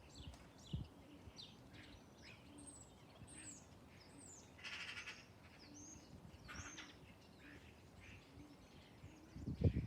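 Faint bird sounds: small birds chirping in short high calls, with a couple of harsher raspy calls, and faint low cooing underneath. A short low bump comes near the end.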